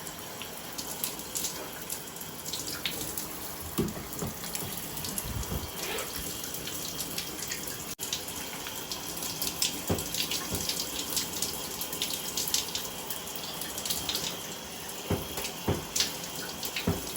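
Shower running with lukewarm water spraying and spattering steadily, with scattered sharp clicks through it.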